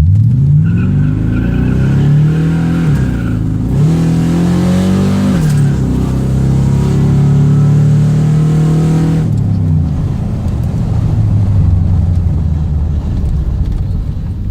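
The 5.3-litre LS V8 of a 1998 Chevy pickup on a full-throttle pull: the engine note climbs, drops at two upshifts of the 4L60E automatic, and holds high with rising wind and road noise. About two-thirds of the way through the throttle comes off and the engine settles to a lower, steady note.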